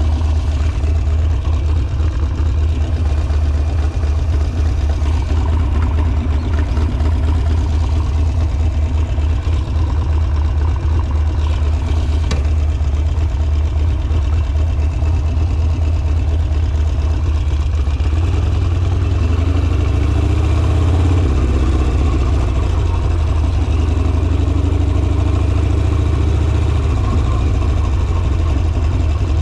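Harley-Davidson Sportster's V-twin engine running steadily with a pulsing low note, its pitch wavering and gliding up and down with throttle changes about two-thirds of the way through. A single sharp click about twelve seconds in.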